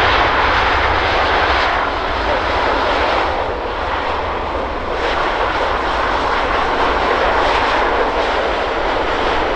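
Rolls-Royce Trent XWB jet engines of an Airbus A350-900 on arrival, a loud, steady rushing noise that dips slightly a few seconds in and comes back up.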